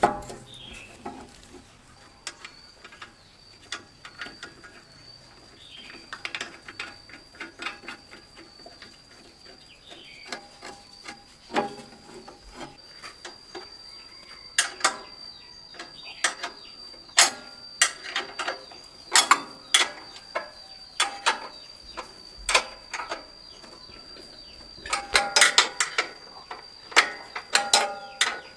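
Hand tools working on metal machine parts: irregular clinks, knocks and ratcheting clicks in scattered clusters, busiest in the second half.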